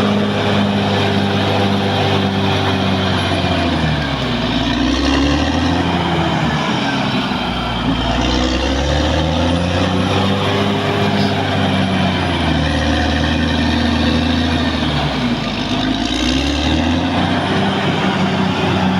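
Caterpillar D6R XL bulldozer's diesel engine running hard, its engine note dropping twice, about four seconds in and again near the end, then climbing back up.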